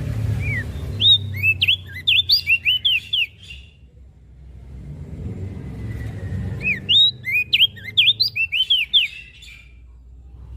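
Opior jambul (crested white-eye) singing: two bursts of quick, sharp swooping whistled notes, the second starting about six and a half seconds in, over a steady low rumble.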